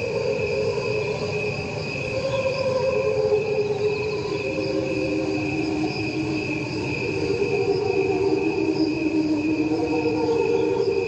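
Crickets trilling steadily, layered with the same cricket song slowed down into low, sustained tones that shift slowly in pitch and sound like a choir singing.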